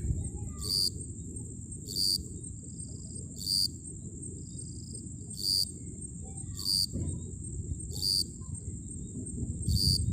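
Night insects calling: a continuous high-pitched insect trill, with a louder chirp about every second and a half, over a low background rumble.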